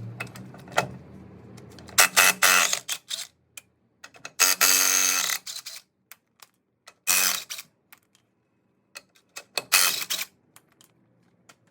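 DeWalt cordless impact wrench run in four short bursts, each half a second to a second long, spinning off a wheel's lug nuts.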